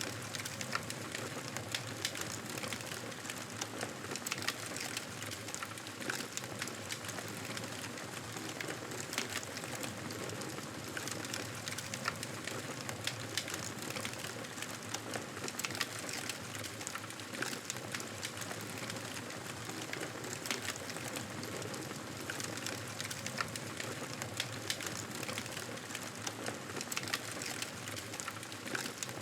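Wood fire crackling in a fireplace: frequent sharp pops and snaps over a steady hiss.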